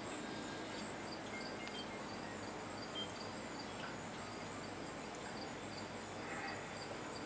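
Steady backyard ambience: an even background hiss with a high insect chirp pulsing about twice a second.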